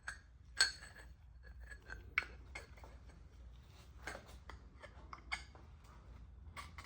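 Metal tools and engine parts clinking and clicking irregularly as they are handled, with the sharpest clinks about half a second and two seconds in.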